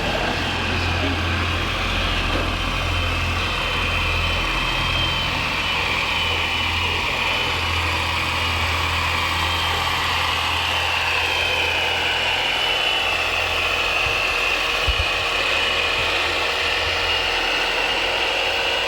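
Radio-controlled model vehicles running: a steady low engine-like hum with a high motor whine that drifts slowly in pitch. The low hum drops away about twelve seconds in, and there is a single short knock a few seconds later.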